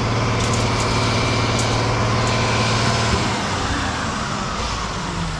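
Front-discharge concrete mixer truck's diesel engine running at high revs while pouring, then easing off a little over three seconds in, its pitch falling.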